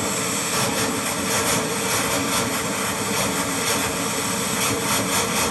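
Jet truck's turbine engine running steadily: a dense, unbroken rush with a steady high whine.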